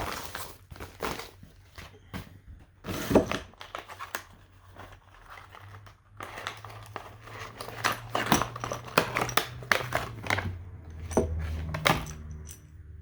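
Plastic packaging crinkling and tearing as parts are unwrapped and handled, with scattered sharp clicks and light knocks.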